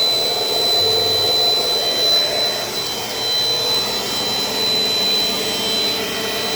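Dirt Devil Dynamite Plus compact vacuum cleaner running steadily while vacuuming the floor, its motor and airflow noise topped by a steady high-pitched whine.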